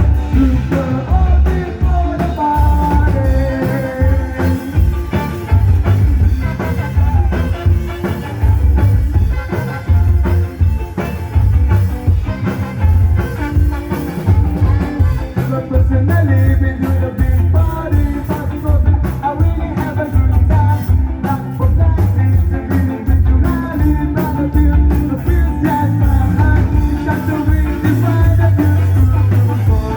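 Live band playing a loud, up-tempo song, with singing over a heavy pulsing bass and drum beat.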